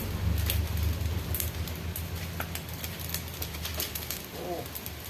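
Food frying in a pan, with scattered crackles and pops over a steady low rumble.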